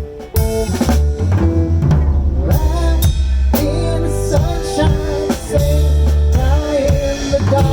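Instrumental passage of a blues-style rock song: a drum kit keeps the beat while a guitar plays a melodic line that bends in pitch.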